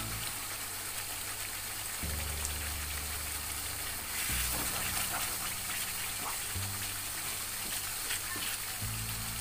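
Chili spice paste frying in a wok with a steady sizzle, under background music with slow bass notes that change every couple of seconds.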